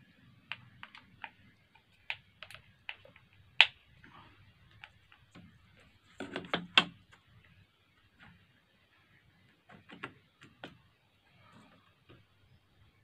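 Scattered small clicks and light knocks of hand tools and parts being handled on a workbench, with the loudest knock about three and a half seconds in and a quick cluster of knocks about six seconds in.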